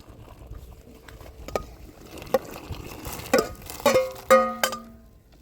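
Several plucked string notes in quick succession about three seconds in, each ringing and fading, with a few light knocks before them.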